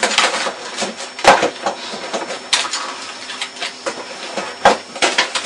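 Computer keyboard being hammered rapidly: a dense clatter of key strikes, with two harder bangs, one about a second in and one near the end.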